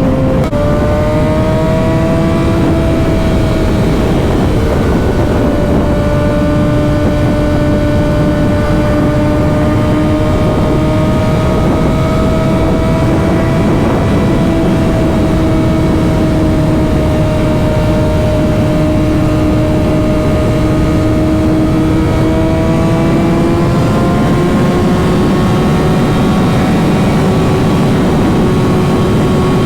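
Motorcycle engine running at a steady cruising pitch under a heavy rush of wind noise, as heard from the rider. The engine note steps up just after the start and climbs again about three-quarters of the way through.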